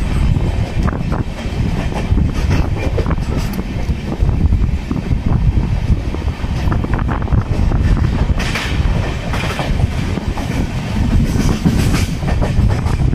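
Express passenger train running at speed, heard from the side of a moving coach: a steady low rumble of wheels on rail with a fast clatter of clicks over the rail joints. It has a couple of brief louder hissing surges about two-thirds of the way through.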